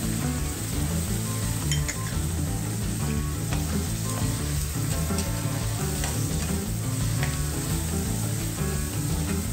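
Diced vegetables sizzling in a hot metal kadai as they are stirred with a slotted metal spatula, with a few light scrapes and clinks of the spatula on the pan. Background music plays underneath.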